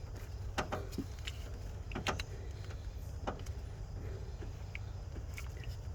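Scattered clicks and light taps of tools and distributor parts being handled and fitted, a few seconds apart, over a steady low rumble.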